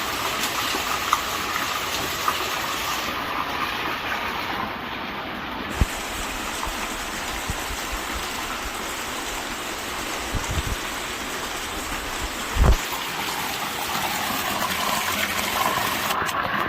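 Rainwater rushing in a steady gravity flow, with a few brief low thumps partway through.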